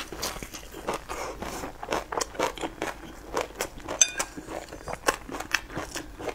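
Close-miked chewing of a mouthful of crispy pan-fried flatbread: crunching and wet mouth clicks, several a second. About four seconds in, a sharp clink with a brief ring as chopsticks strike the porcelain bowl.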